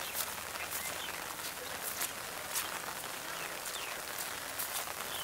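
Steady rain falling, an even hiss with sharp ticks of single drops landing close by, and a few faint short chirps.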